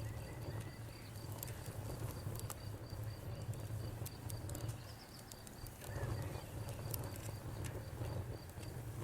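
Wood fire crackling: irregular sharp pops and snaps over a steady low rumble of burning. A faint, high, evenly pulsing chirp, like a cricket, runs underneath.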